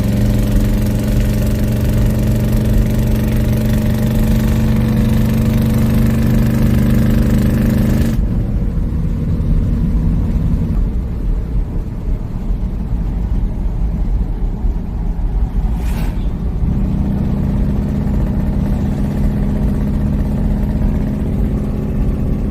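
Squarebody Chevy pickup's engine running on the road, pulling steadily for about eight seconds, then easing off as the note drops away, and settling back into a steady lower drone for the last few seconds. A single sharp click sounds about two-thirds of the way through. The engine runs smoothly without backfiring.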